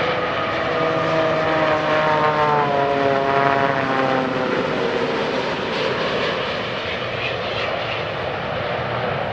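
Boeing 787 passing low on approach with its ram air turbine deployed: a propeller-like whine that falls steadily in pitch as the aircraft goes by, over a broad rush of engine and air noise.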